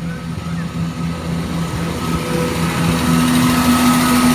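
Class 171 Turbostar diesel multiple unit running past, its diesel engine note growing louder toward the end.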